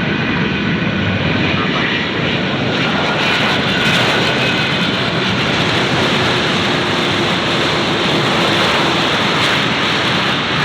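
Airliner's jet engines, a loud, steady rush of noise, with faint whining tones that fade in the first couple of seconds.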